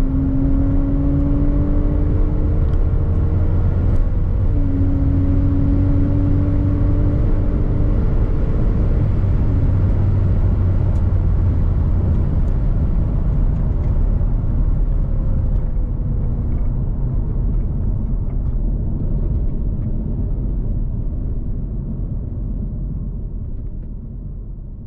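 Kia Stinger GT's 3.3-litre twin-turbo V6 accelerating: the engine note climbs, drops at an upshift about four and a half seconds in and climbs again. After about nine seconds it gives way to a steady road and wind rumble that fades out near the end.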